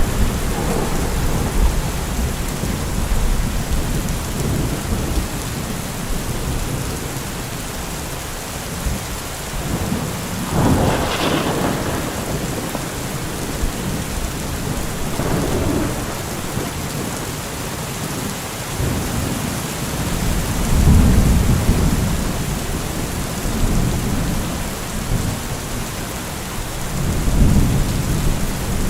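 Steady heavy rain falling, with thunder rolling several times. Near the middle comes a sharper, brighter clap; later come deep, low rumbles.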